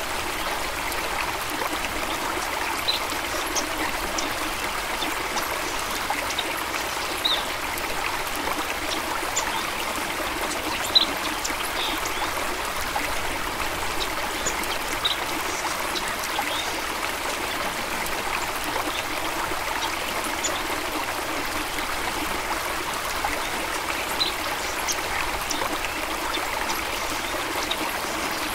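A small stream running and trickling steadily, with scattered small splashes and drips over the continuous flow.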